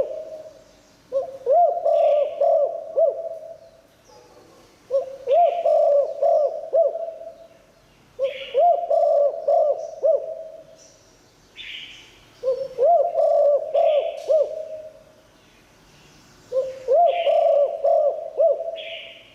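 Spotted dove cooing: five phrases of several low notes each, repeated about every four seconds.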